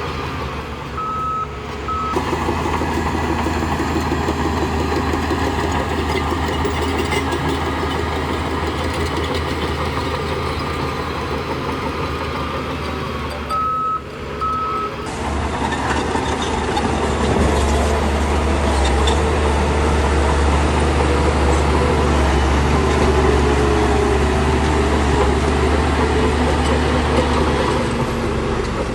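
Diesel engines of heavy earth-moving machinery running steadily, with a reversing alarm giving short beeps about a second in and again around halfway. The engine drone grows louder in the second half.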